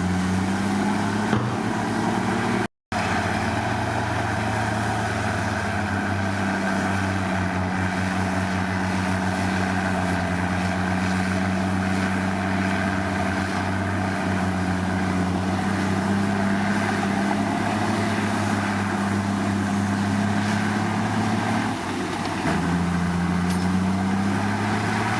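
Diesel engine of a Komatsu D53 crawler bulldozer running steadily. It cuts out for a moment about three seconds in and rises slightly in pitch near the end.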